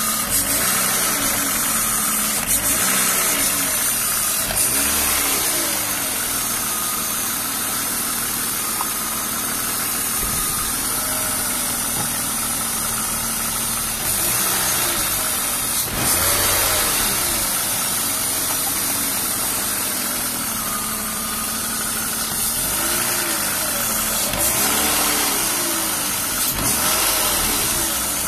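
BMW M52B28 2.8-litre straight-six idling in an E36 328i, with a steady hiss that the owner traces to the area under the intake manifold and a rattle that he places in the engine itself rather than the Vanos. He wonders whether old oil is the cause.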